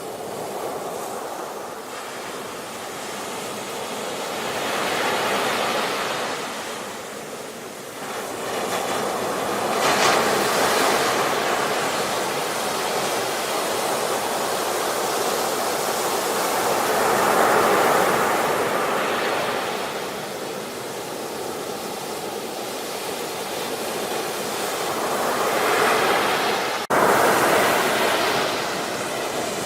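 Ocean waves breaking and washing in, swelling and ebbing in surges several seconds apart. The sound cuts out for an instant near the end and then resumes.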